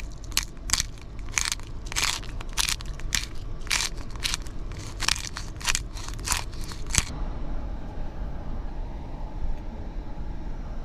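Pepper grinder being twisted, grinding peppercorns in a run of short strokes, about two a second, that stops about seven seconds in.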